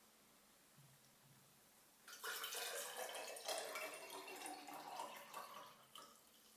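Running water, starting about two seconds in and lasting about four seconds before trailing off.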